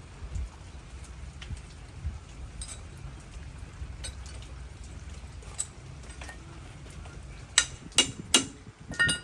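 Metal tools clinking against metal about five times in quick succession near the end, each strike ringing briefly, over a low steady background rumble.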